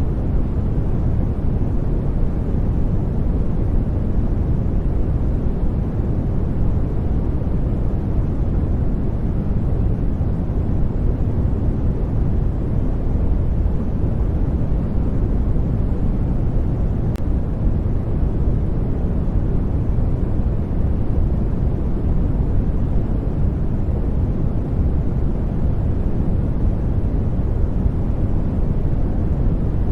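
Steady sleep noise track: an even, deep rushing noise, mostly low in pitch, that stays unchanged throughout.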